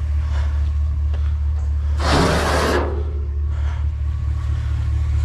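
Truck engine idling with a steady low drone, with a short burst of rushing, scraping noise about two seconds in that lasts under a second.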